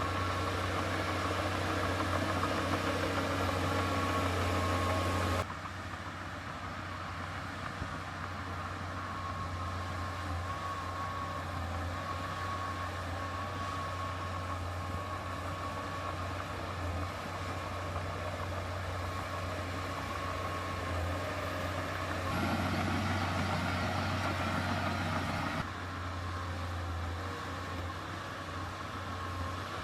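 Diesel engine of heavy earthmoving machinery running steadily. The overall sound changes abruptly about five seconds in, and again about 22 and 26 seconds in.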